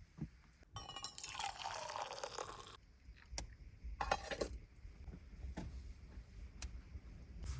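Liquid pouring for about two seconds, then a brief clatter of clinks.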